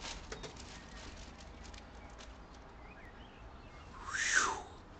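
Birds chirping faintly, then one loud harsh call about four seconds in that rises and falls in pitch over about half a second, over a low steady hum.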